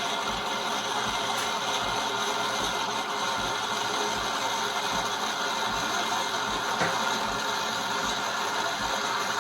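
Coffee machine pumping and frothing milk drawn up through its milk tube, a steady mechanical whirring with a regular low pulse about every two-thirds of a second.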